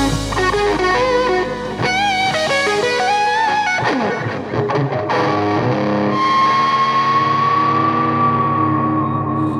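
Blues-rock recording: an electric guitar lead plays bent, wavering notes over the band, slides down about four seconds in, then holds one long high note over a sustained chord.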